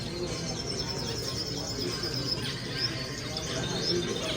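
Many small caged birds chirping and twittering together, with a quick run of high repeated chirps in the first half, over a low background murmur.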